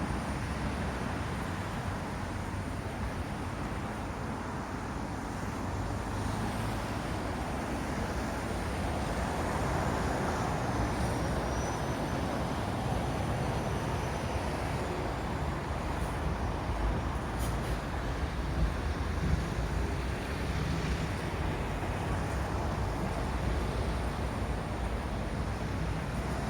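Road traffic going round a roundabout: a steady rumble of cars and lorries passing, swelling slightly partway through, with a few short clicks in the second half.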